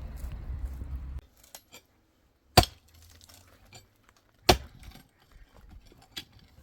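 Two sharp clinks about two seconds apart, with a fainter one near the end, after a low rumble cuts off about a second in.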